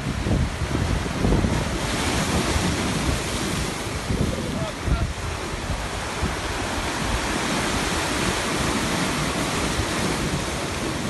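Sea waves washing onto the shore as a steady rush, with wind buffeting the microphone in low, uneven gusts.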